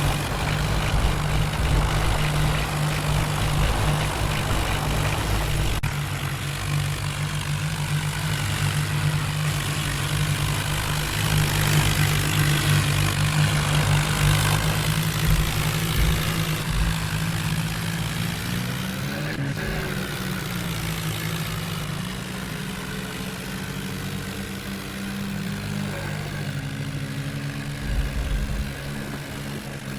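Heavy diesel engine running steadily, with a short rise and fall in pitch about two-thirds of the way through.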